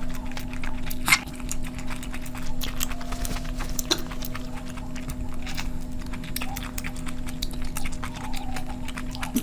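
Close-miked eating sounds: a person chewing and smacking food in quick, irregular clicks, over a steady low hum.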